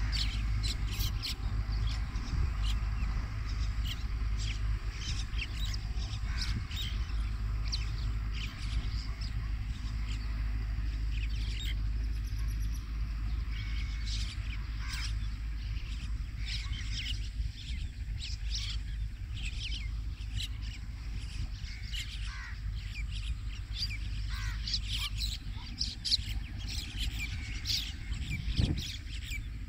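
Many birds calling in short, repeated chirps over a steady low rumble, with a short thump near the end.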